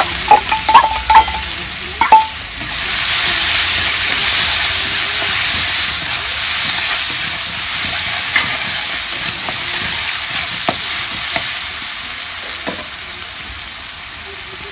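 Bay leaves and onion frying in hot oil in a pan, sizzling loudly, with a few ringing clinks of a metal spatula against the pan in the first two seconds. The sizzle swells about three seconds in and slowly eases toward the end.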